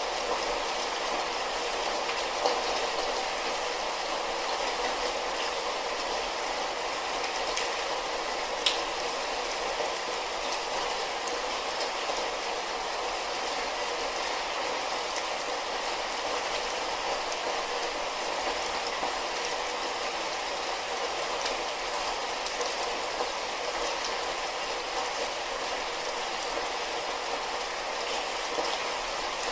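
Light rain falling steadily, an even hiss with a few sharper single drop ticks now and then.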